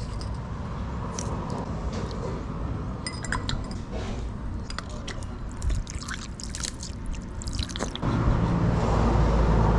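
Scattered light clinks of utensils against a bowl and glass over a steady low rumble; the rumble grows louder about eight seconds in.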